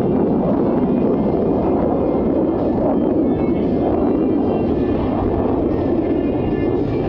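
Jet noise from a formation of Blue Angels F/A-18 Super Hornets flying overhead: a loud, steady roar without breaks.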